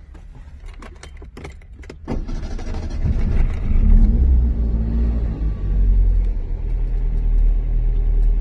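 Key clicks in the ignition of a 1989 Yugo 55A, then about two seconds in its four-cylinder petrol engine turns over and starts, rising briefly before settling into a steady idle, heard from inside the cabin.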